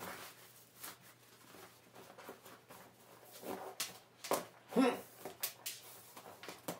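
Shoes being put on: scattered rustling and light knocks, with a few short vocal sounds about halfway through.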